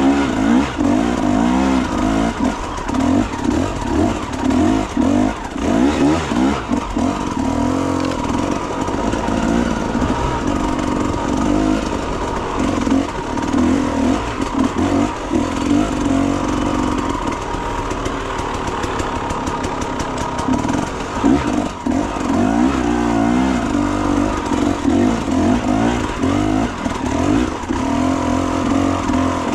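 Enduro motorcycle engine revving up and dropping back again and again, its pitch rising and falling every second or two.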